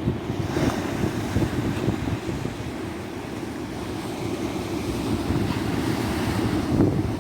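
Ocean surf washing onto a tropical beach, a steady rushing that swells and eases, with a low wind rumble on the microphone.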